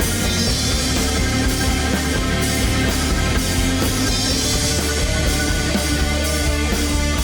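Live rock band playing an instrumental passage: distorted electric guitars, bass and a drum kit with steady cymbals, leading into a sung verse.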